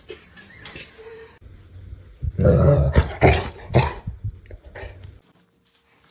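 A pet animal's loud, rough vocalising for about two seconds in the middle, with quieter noises around it, cut off abruptly near the end.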